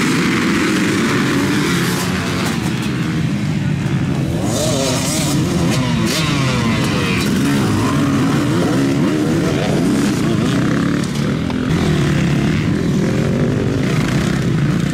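Several off-road racing engines running hard together, their pitches rising and falling and crossing as the machines accelerate and shift.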